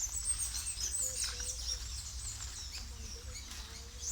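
Wild birds chirping: a run of short, high chirps and quick rising and falling notes, over a low steady rumble.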